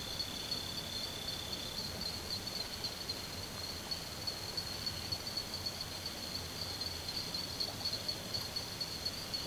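Insects chirring in a forest: one steady, high, rapidly pulsing trill throughout, with a second, lower trill fading out about two seconds in.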